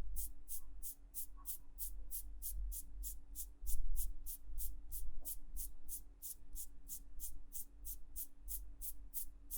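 Ear-cleaning tool scratching at a microphone's ear in quick, even strokes, about three or four a second, with a low rumble underneath.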